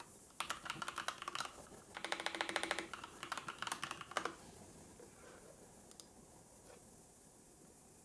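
Typing on a computer keyboard: quick runs of key clicks for about four seconds, fastest in the middle, then stopping. A single lone click follows about six seconds in.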